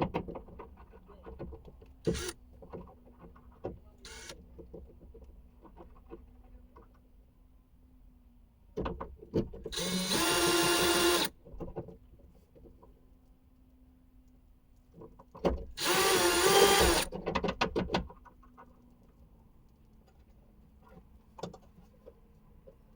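Cordless drill/driver run in two bursts of about a second and a half each, about ten and sixteen seconds in, with a steady whine, backing out 10 mm spoiler bolts. Light clicks and handling knocks come in between.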